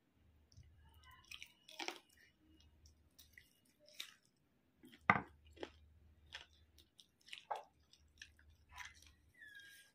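Close-up eating sounds: wet chewing and lip smacks as meat is bitten off a curry-coated chicken leg held in the fingers, in irregular clicks with the loudest smack about five seconds in.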